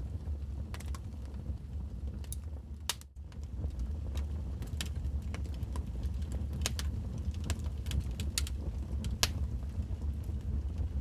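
Wood fire burning in a fireplace: a steady low rumble with irregular crackles and pops. The sound dips out briefly about three seconds in.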